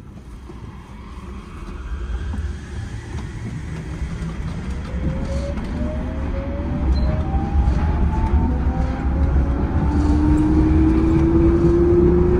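Yurikamome rubber-tyred automated guideway train accelerating away from a station. A low running rumble grows steadily louder, and from about four seconds in an electric traction-motor whine climbs in pitch as speed builds.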